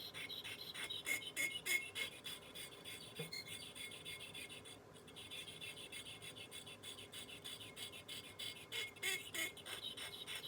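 Gracey 13/14 curette blade scraped back and forth on a water-wetted sharpening stone in quick short strokes, about three a second, while the toe third of the blade is sharpened. There is a brief let-up about halfway through.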